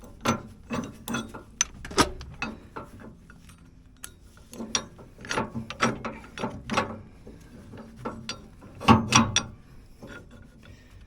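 Irregular metal clanks and knocks from a tractor's three-point-hitch top link being handled and fitted to a rotary cutter's hitch, in scattered clusters.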